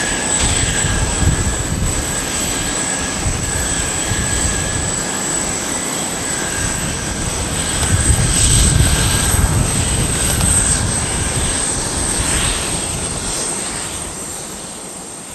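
Jet engines of a Boeing 787-9 (Rolls-Royce Trent 1000) at takeoff power: a low rumble that swells about eight seconds in, then fades toward the end as the airliner departs.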